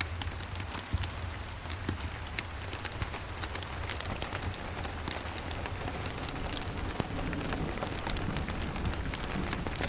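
Steady rain with scattered small clicks and crackles over it, typical of a wood fire crackling beside the rain. A low rumble of distant thunder starts to build near the end.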